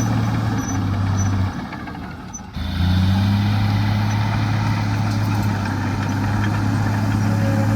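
Heavy diesel engine of earthmoving machinery running at a steady speed. It dips away for about a second near the start, then comes back.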